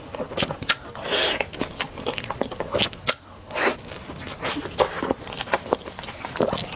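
Close-miked eating: a person biting, crunching and chewing food with many small, irregular mouth clicks.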